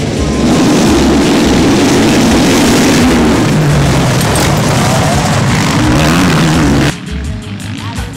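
Motocross motorcycle engines running hard and revving, over background music with a steady beat. The engine noise cuts off suddenly about seven seconds in, leaving only the music.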